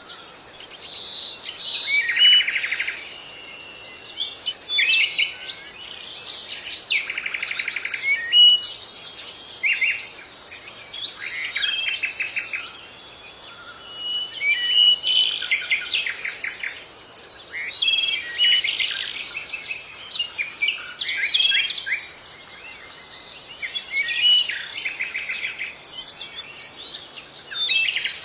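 Songbirds singing and chirping: quick whistled notes and rapid buzzy trills in bursts, with short pauses between phrases.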